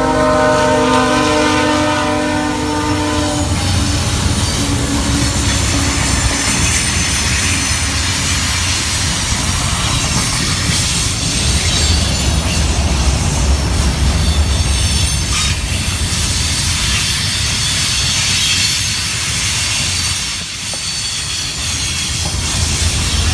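CSX freight train passing close by. The locomotive's horn sounds a chord of several steady tones that stops about three and a half seconds in. Then freight cars roll past with a steady low rumble and wheel clatter, and a thin high wheel squeal.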